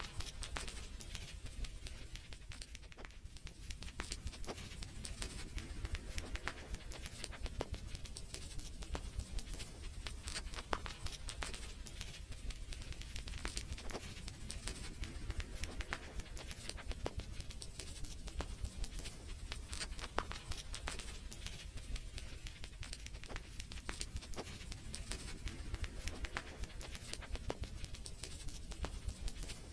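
Fireplace fire crackling: a dense, irregular run of sharp pops and snaps over a low steady rumble.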